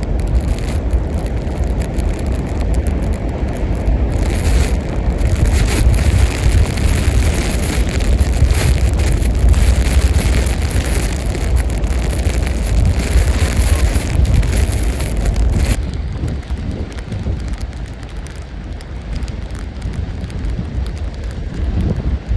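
Tropical-storm wind buffeting the microphone: a heavy, steady rumble with a loud hissing rush over it that drops away suddenly about sixteen seconds in.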